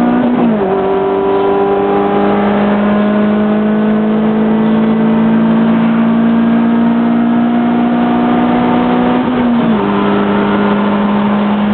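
Car engine under hard acceleration, its pitch climbing slowly as it pulls through a long gear. There are two quick drops in pitch at upshifts, one just after the start and one about nine and a half seconds in.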